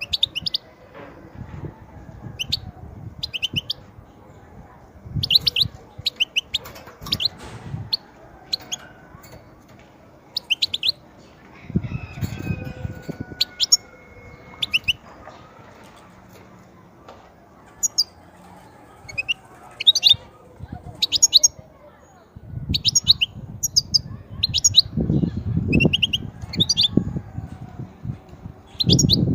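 European goldfinch calling in short bursts of rapid, high twittering notes, repeated every second or so, with a pause in the middle. Low rumbling noise runs under the calls twice, once near the middle and again towards the end.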